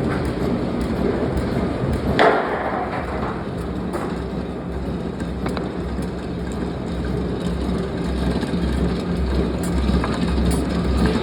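Forging-shop machinery running steadily with a low, rhythmic pulsing, and one loud metallic clank about two seconds in.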